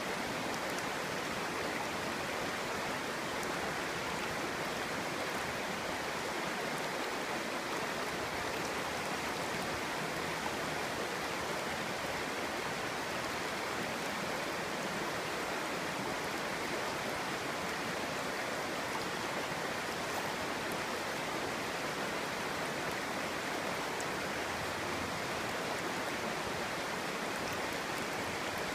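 Clear stream flowing and babbling over stones, a steady rush of water with no change.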